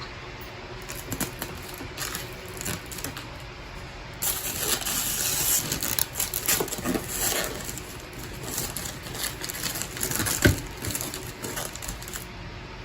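Touchscreen parts handled by hand: irregular small clicks and taps, a couple of seconds of rustling or scraping of plastic about four seconds in, and a sharper knock a couple of seconds before the end.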